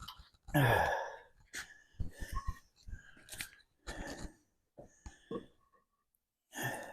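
A string of short, irregular knocks and scrapes from hands-on work. About half a second in comes a brief grunt of effort.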